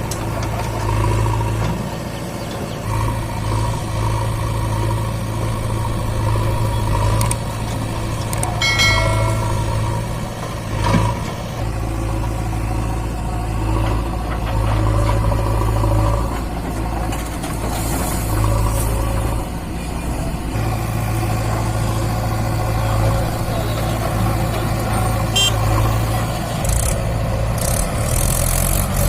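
Mahindra 575 DI tractor's four-cylinder diesel engine running steadily. There is a brief high-pitched tone about nine seconds in and a sharp knock about two seconds later.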